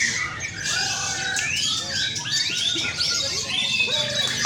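Many caged white-rumped shamas singing at once, a dense chorus of overlapping whistled phrases and rising and falling notes.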